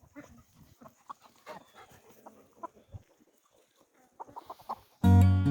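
Chickens clucking in a flock, short scattered calls. Acoustic guitar music starts near the end.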